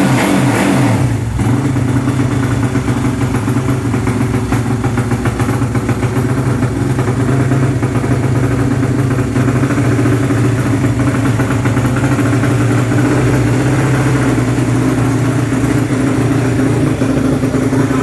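130cc motorcycle engine, tuned for drag racing, idling steadily. A brief higher-revving burst at the start dies away about a second in.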